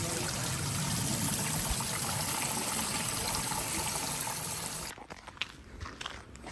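Small mountain stream of glacial meltwater running steadily over stones. About five seconds in it cuts off abruptly, leaving quieter footsteps on a trail.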